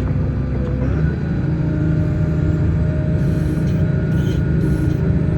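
Grimme Varitron 270 self-propelled potato harvester running with a steady mechanical rumble and whine as it sets off to begin lifting. About a second in, the pitch of its tones shifts and the rumble grows fuller.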